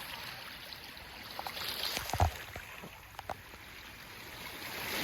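Sea water washing and trickling among shoreline rocks, with a couple of short knocks a little past the middle.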